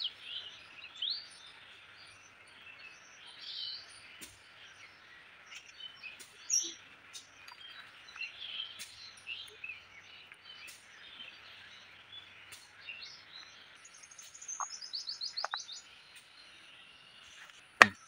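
Wild birds chirping and calling, with scattered short high notes and, a little past three-quarters through, a quick run of short falling notes. A single sharp click just before the end is the loudest sound.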